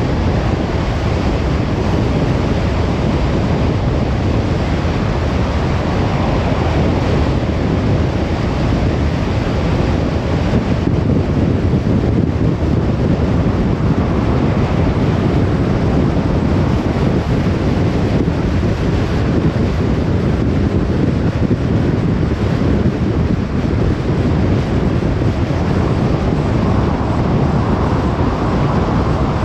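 Steady road noise of a moving car: a continuous rush of tyre and wind noise with a deep rumble underneath, unchanging throughout.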